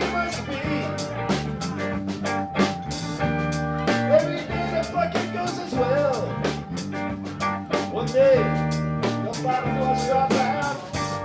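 A band playing: drum kit keeping a steady beat under bass and guitar chords, with a lead line bending up and down in pitch.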